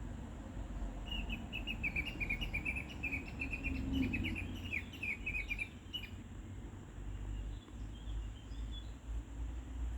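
A small bird singing: a fast run of short chirping notes that starts about a second in and lasts about five seconds, with the notes falling slightly in pitch, over a low rumble.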